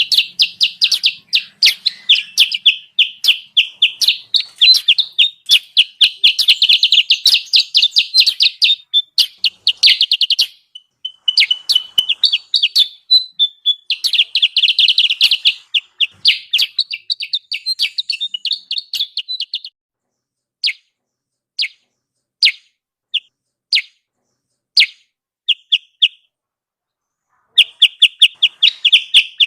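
Kutilang sutra lure recording: fast trains of short, high chattering notes in rapid succession. About two-thirds of the way through it thins to a handful of separate single notes, then the fast chatter resumes near the end.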